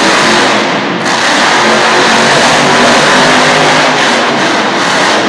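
Monster truck engine revving hard and running loud while doing donuts.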